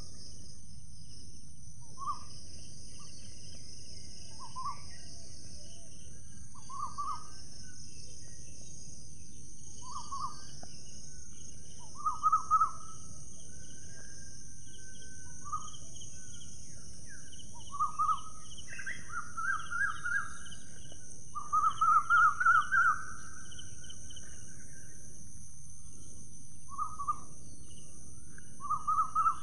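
A bird giving short, quick-trilled calls every two or three seconds, louder and in closer runs in the middle, over a steady high hiss of background ambience.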